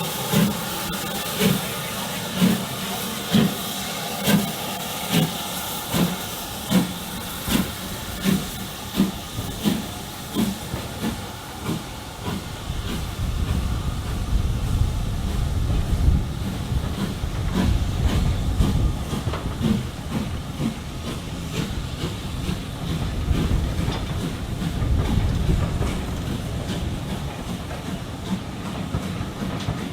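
Steam locomotive exhaust beats with a steady hiss of steam, the chuffs coming slightly quicker as the engine gets its train moving and fading after about twelve seconds. A steady low rumble of the train running on the rails follows.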